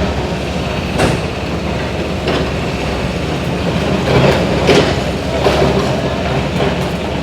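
Steady loud mechanical rumble and clatter, with a few sharp knocks.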